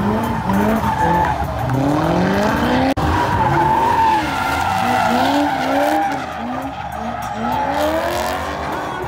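LS V8 of a fourth-generation Pontiac Firebird revving up and falling back again and again during donuts, about once or twice a second, with its rear tyres spinning and squealing on the asphalt.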